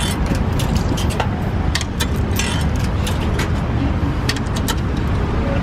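Street traffic: a steady low rumble of passing vehicles, with scattered short clicks and knocks.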